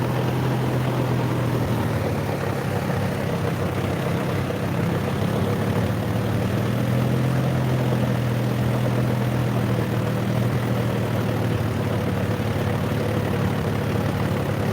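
John Deere 5050D tractor's three-cylinder diesel engine running at a steady, unchanging speed.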